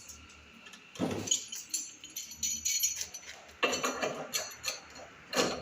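Irregular clinks and knocks of hard objects being handled, several a second, in clusters that start about a second in and stop briefly just after the midpoint.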